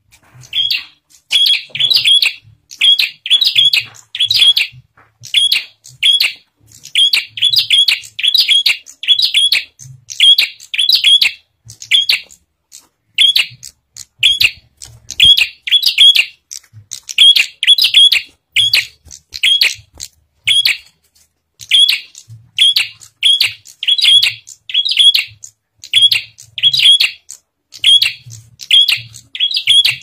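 Bar-winged prinia (prenjak) calling steadily: loud, sharp chirps repeated in quick groups of two to four, with short pauses between groups.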